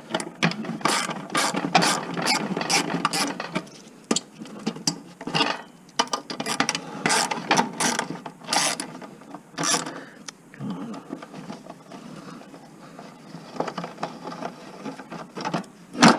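Hand ratchet and socket working bolts loose, the pawl clicking in quick, irregular runs with knocks and clinks of metal parts. The clicking thins out for a few seconds a little past the middle, then picks up again.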